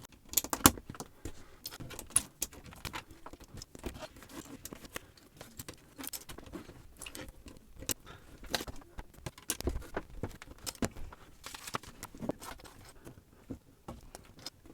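Plastic building bricks clicking and rattling as they are handled and sorted, with the crinkle of a parts bag: many short, irregular clicks.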